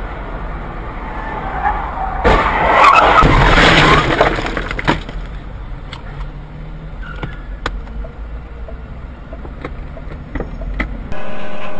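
Car skidding as it spins round, heard from inside through a dashcam: engine and road noise, a loud rush of tyre noise for about two seconds a couple of seconds in, then several sharp clicks.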